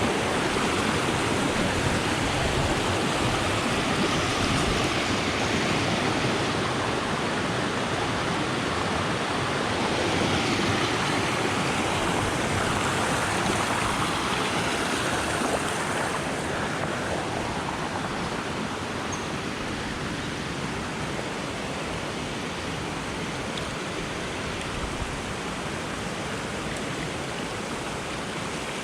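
Steady rushing of water from a jungle stream's waterfall cascades, easing off a little about halfway through.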